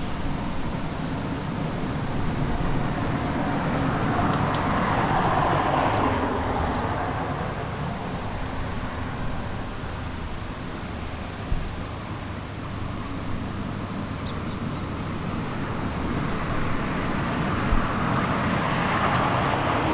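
Road traffic: cars passing, one swelling up and fading about five seconds in and another near the end, over a steady low rumble.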